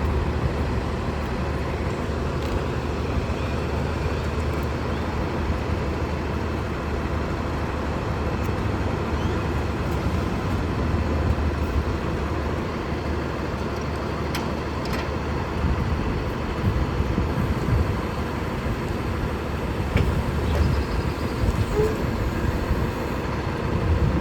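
Garbage truck's diesel engine running steadily with a low hum, with a few faint clicks and knocks in the second half.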